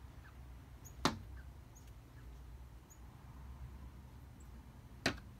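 A small bird flying into window glass: two sharp knocks on the pane, about four seconds apart. The owner thinks the bird may be fighting its own reflection.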